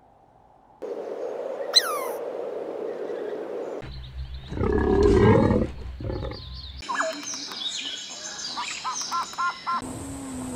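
A run of different animal calls cut one after another. A loud, low call about halfway through is followed by high chirping calls and short repeated notes.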